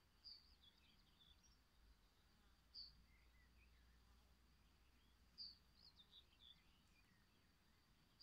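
Faint birdsong: a bird gives a short high chirp about every two and a half seconds, with softer twittering in between, over a near-silent background.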